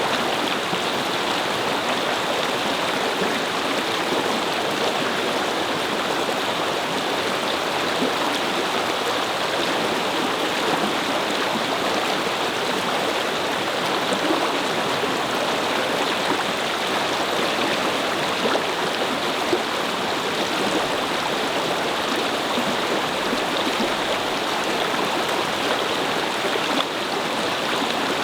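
Brook water flowing over stones: a steady babbling rush.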